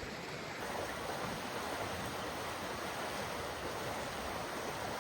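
A steady, even rushing noise outdoors, with no gusts, breaks or distinct events.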